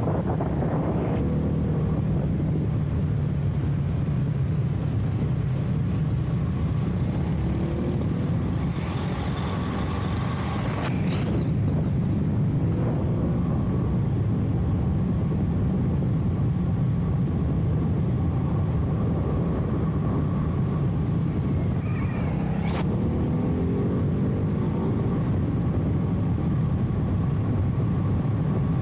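Ducati Hypermotard 698 Mono's single-cylinder engine running under way, its pitch rising and falling several times with the throttle and gear changes. Wind noise rushes over the helmet-mounted microphone, briefly louder about nine seconds in.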